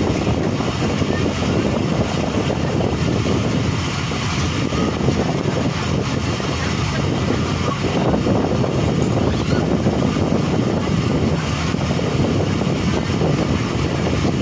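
Passenger coach of the moving Tezgam Express train, heard from an open window: a steady rumble of the wheels on the track mixed with a rush of wind.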